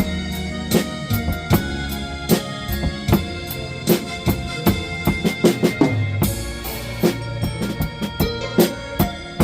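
Drum kit played to a blues backing track: steady bass drum and snare strokes over held bass and instrument notes, with a quick fill of closely spaced strokes about halfway through.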